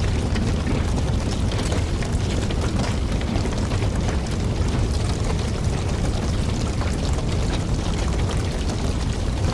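Wood campfire burning: a steady low rumble of flames with frequent sharp crackles and pops from the burning logs.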